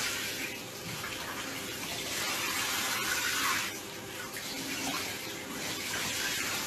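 Running water, a steady rushing hiss that swells louder for a while in the middle.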